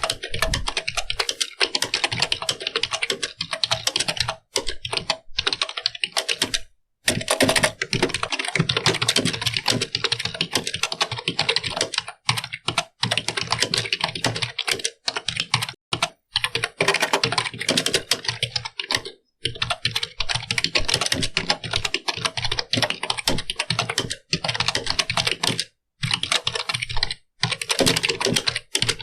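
Computer keyboard being typed on: fast, continuous key clicks, broken by several short pauses.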